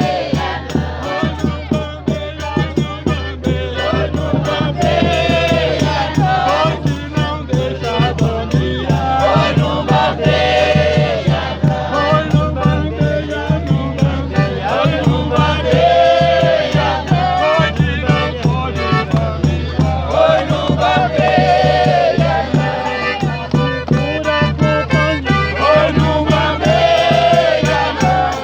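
Folk music with several voices singing together over a steady, fast shaken-rattle beat.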